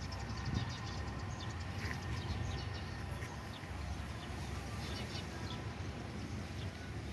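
Outdoor background of a steady low rumble from queued trucks idling, with short high bird chirps scattered through it.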